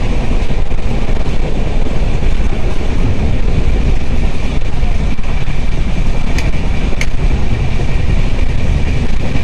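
Running noise of a moving passenger train heard inside the coach: a steady low rumble of wheels on rails with a thin, steady high tone above it. There are two sharp clicks about six and a half and seven seconds in.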